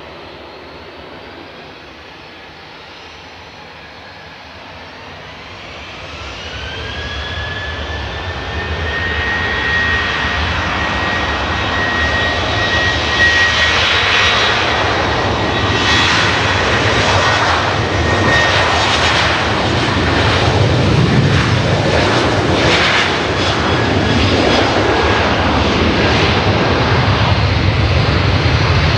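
Boeing 737-800's CFM56-7B turbofan engines spooling up for takeoff: a whine rises in pitch a few seconds in and settles into a steady high tone, then gives way to a loud jet roar that wavers and sweeps as it goes on.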